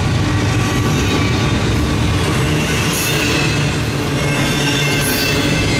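Double-stack intermodal container train's well cars rolling past: a steady rumble of steel wheels on the rails, with thin, high wheel squeal running over it.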